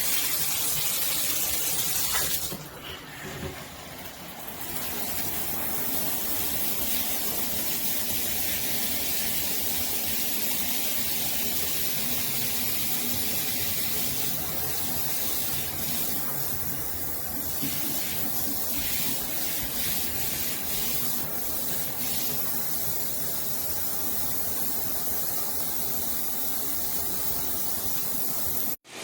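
Water spraying steadily from a 9-inch VMASSTONE rain showerhead, an even hiss. It drops off briefly a few seconds in, then runs on.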